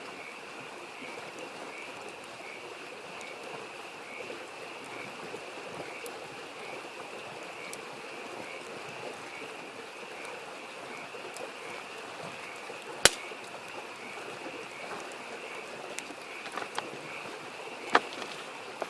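A mountain stream babbles steadily under a chorus of frogs calling in a steady pulsing rhythm, about twice a second. Two sharp pops from a crackling wood campfire stand out, one about two-thirds of the way through and one near the end.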